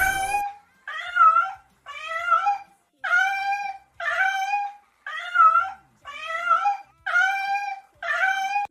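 An animal's pitched call repeated about nine times, roughly one a second, each short and bending up and down in pitch.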